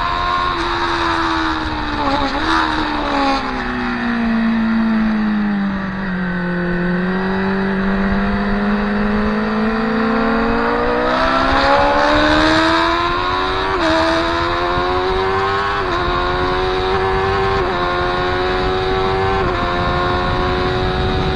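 Motorcycle engine on a race track: revs fall steadily as the bike slows, with a quick blip of a downshift, then climb hard under acceleration through a series of quick upshifts, each a sudden drop in pitch.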